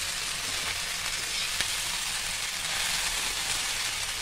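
Chopped okra with onion and spices sizzling steadily as it fries in a kadhai, stirred with a spatula, with one small tick midway.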